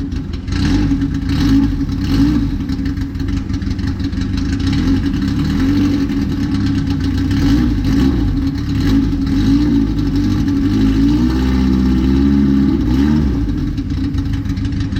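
Car engine running just after a cold start, fully cold after sitting unstarted for about a month, its oil pressure primed beforehand. Its speed rises and dips several times, most clearly in the second half.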